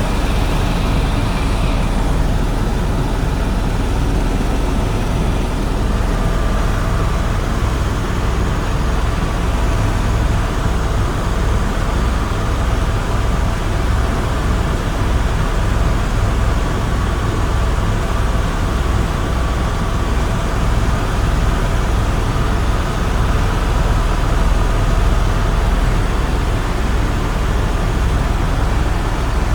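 Airbus tour helicopter in flight: a steady turbine and rotor drone with a rapid, regular low beat from the main rotor blades.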